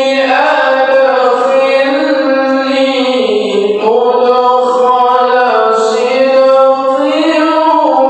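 A male qori chanting Qur'an recitation in a melodic tilawah style, holding long ornamented notes that slide up and down in pitch.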